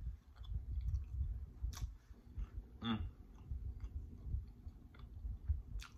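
A person chewing a mouthful of homemade pizza, close to the microphone, with irregular soft chomps and wet mouth clicks. About three seconds in comes a short hummed 'mm'.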